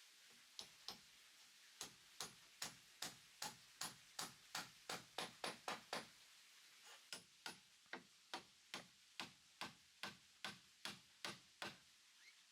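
A tool striking wood in a long run of sharp knocks, about two to three a second. The knocks quicken up to a short pause about halfway, then go on at an even pace until near the end.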